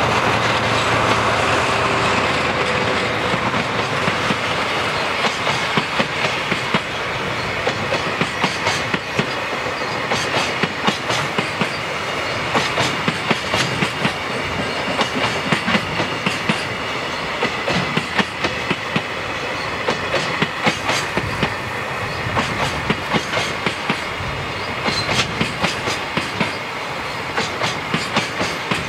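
A freight train's container flat wagons rolling past at steady speed, their wheels clicking rhythmically over the rail joints, the clicks coming in close groups as each wagon's wheels pass, over a continuous rumble of the running gear.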